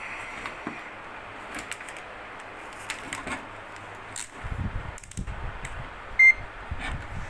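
Light clicks and handling noise of test probes and tools on the workbench, with a single short beep about six seconds in, like a multimeter's beep while voltages and continuity are being measured.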